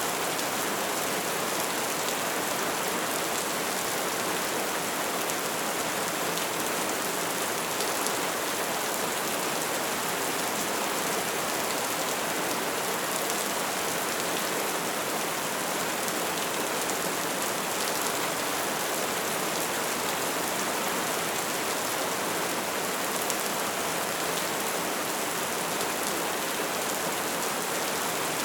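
A bonfire burning with a steady dense crackle, fine small snaps scattered through an even hiss.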